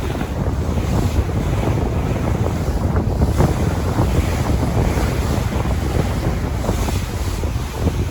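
Sea waves washing in a steady rush, with wind buffeting the microphone in a heavy low rumble.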